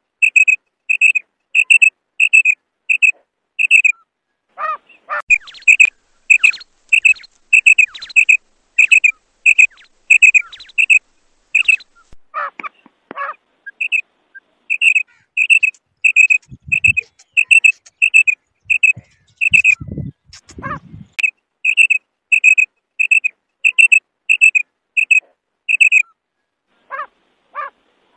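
Female quail (batair) call: short, sharp, high notes repeated about twice a second in long steady runs, with a few brief breaks. A few lower sweeping call notes sound in the breaks, and there are a couple of low thumps partway through.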